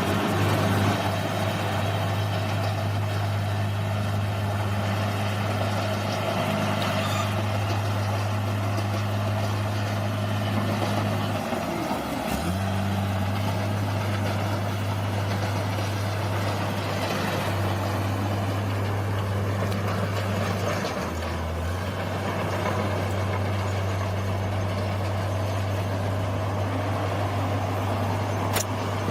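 Bulldozer's diesel engine running steadily, its low hum dipping briefly in pitch about 12 seconds in and again about 21 seconds in. A single sharp click comes near the end.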